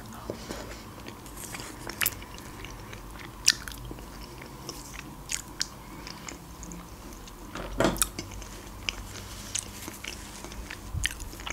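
Close-miked mouth sounds of a person chewing a baked mussel: scattered soft, wet clicks and smacks, the loudest one about eight seconds in.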